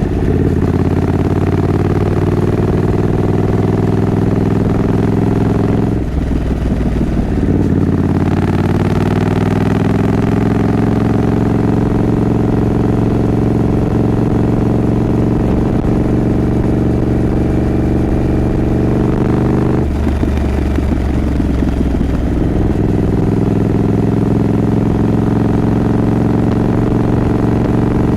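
A Triumph Scrambler 900's 900 cc parallel-twin engine running under way. The engine note breaks off briefly twice, about six and twenty seconds in, as gears are changed, then picks up again at a new pitch.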